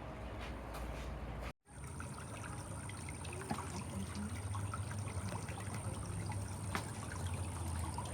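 Water running and trickling steadily in the Espada Aqueduct's acequia channel. The sound drops out for an instant about a second and a half in, then carries on.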